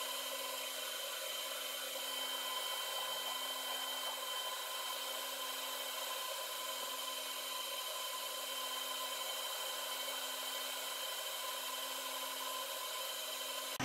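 Metal lathe running: a steady, even whir with several fixed whining tones.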